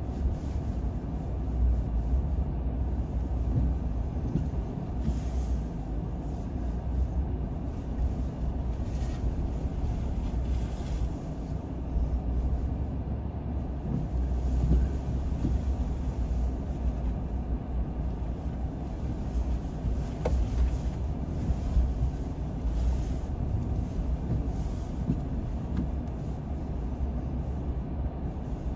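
Car driving on a road: a steady low rumble of road and engine noise, with brief hissing swells every few seconds.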